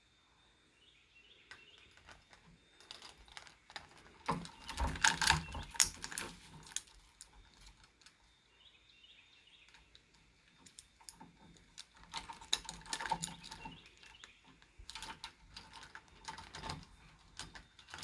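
Pet bird rattling and clattering a toy in bouts of rapid clicks and knocks, the rough play of a bird in an aggressive mood.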